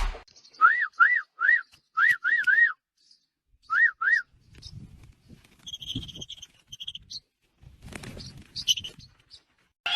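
Pet parrot whistling: short notes that rise and fall, in quick runs of three, three and two. These are followed by softer, higher chirps and faint rustling.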